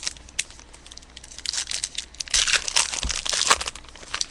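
Plastic card-pack wrapper crinkling and tearing as a pack of trading cards is opened by hand: a few light ticks, then a dense burst of crackling in the middle that stops shortly before the end.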